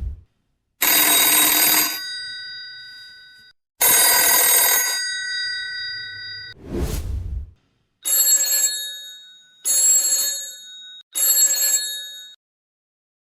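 Old telephone bells ringing: two rings, each about a second long with a ringing tail, then a whoosh, then a different bell ringing three times in shorter bursts.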